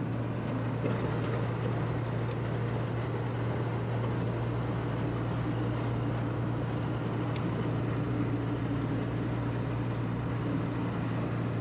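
Rooftop packaged air-conditioning unit running steadily, a constant low hum under an even rush of fan and compressor noise.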